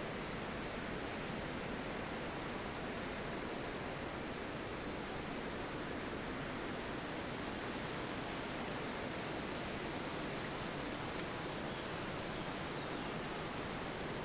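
Wind blowing steadily through forest trees: an even, unbroken rushing noise.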